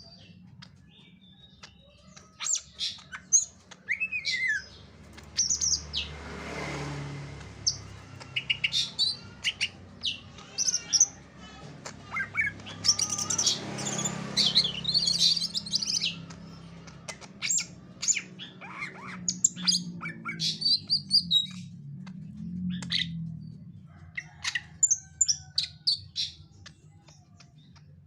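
Caged green leafbird (cucak ijo) calling in many short, quick, varied chirps and sweeping whistled notes, with two brief swells of hissing noise.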